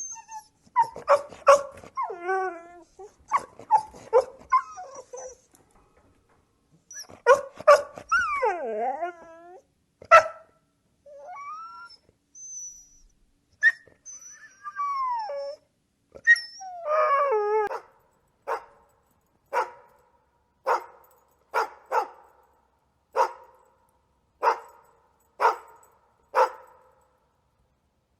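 Dogs whining, yelping and howling in wavering, gliding calls, then a dog barking steadily, about one bark a second, through the last third.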